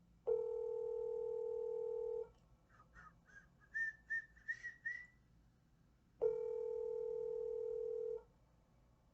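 Telephone ringback tone heard through a phone's speaker: two rings, each about two seconds long and four seconds apart, while the call goes unanswered. Between the rings, a short run of higher notes climbing in pitch.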